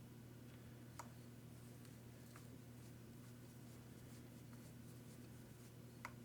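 Near silence: a steady low hum with a few faint, sharp clicks, the last one near the end slightly louder.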